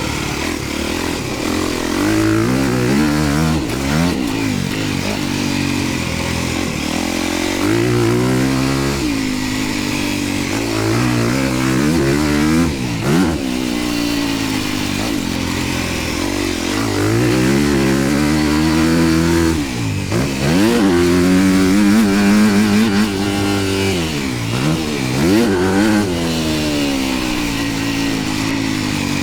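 Motocross dirt bike engine being ridden hard, revving up and dropping back again and again as the rider accelerates, shifts and brakes around the track.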